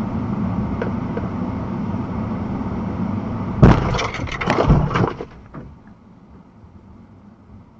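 Steady road noise inside a moving car, then a sudden loud crash about three and a half seconds in, with crunching and breaking for over a second: a vehicle collision.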